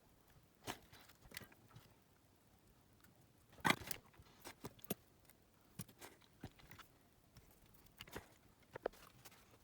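Scattered small clicks, taps and rattles of small parts and tools being handled on a workbench, with the loudest cluster about four seconds in.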